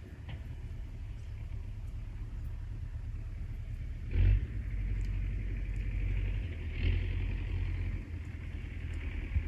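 Outdoor lakeside ambience dominated by a low, gusty rumble of wind on the microphone, swelling about four and seven seconds in.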